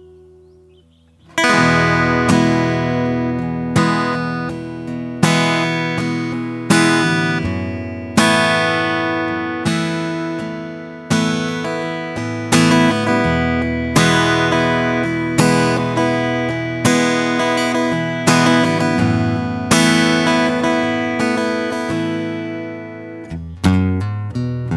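Solo acoustic guitar playing a slow improvised piece. After a quiet fading note in the first second, chords are strummed about every second and a half, each ringing out before the next, with a few quick picked notes near the end.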